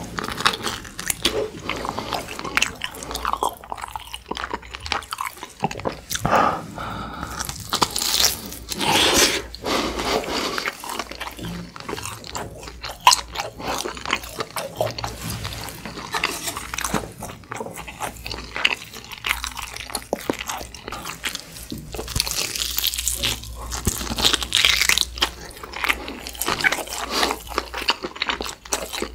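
Close-miked eating sounds: biting and chewing tender beef short rib meat off the bone, in irregular bites and chews.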